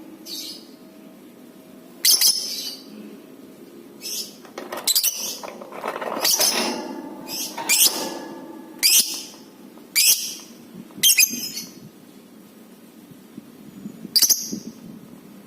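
Lovebird calling: about a dozen short, shrill squawks at uneven intervals, some in quick pairs, with a longer gap near the end.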